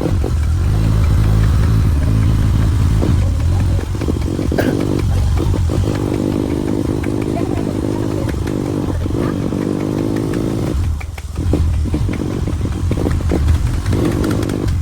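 Motorcycle engine running steadily under way, with the engine note dropping briefly about eleven seconds in before picking up again.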